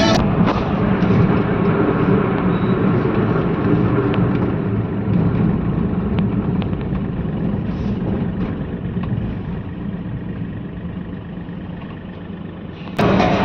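Motor vehicle engine running with steady road noise, a low hum that slowly grows quieter.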